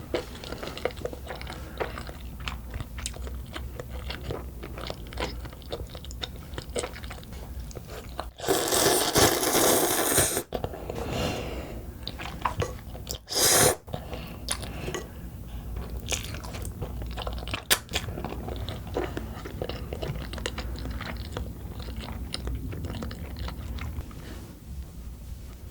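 Close-up chewing and mouth sounds of eating Pororo black bean noodles: many small wet clicks, with a loud noisy stretch of about two seconds about a third of the way in and a shorter one soon after.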